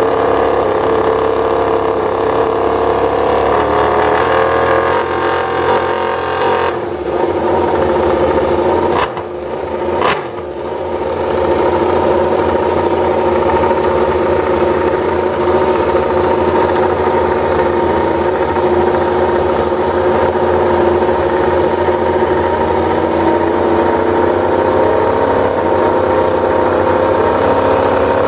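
Yamaha YZR-M1 MotoGP bike's inline-four engine running steadily at a high idle, with a brief dip in level and a couple of sharp pops about nine to ten seconds in before it settles back.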